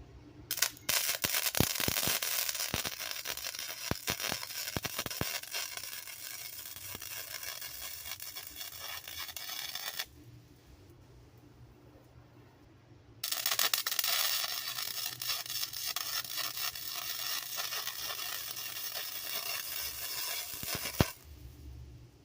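Wire-feed welder arc crackling and sizzling while laying a bead on a car exhaust pipe, in two runs of about nine and eight seconds with a short pause between them.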